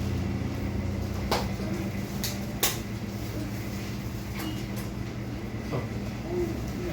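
A steady low mechanical hum, with a few sharp clicks or knocks in the first half.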